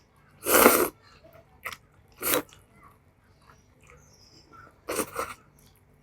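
Close-miked eating sounds of spicy instant noodles: four short, noisy bursts of eating, the first and loudest about half a second in, with faint chewing between.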